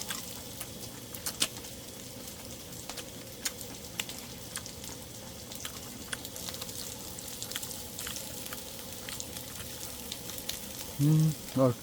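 Meat sizzling as it grills: a steady hiss scattered with small pops and crackles.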